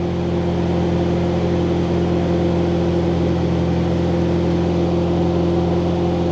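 Welding machine running with a steady, unchanging hum.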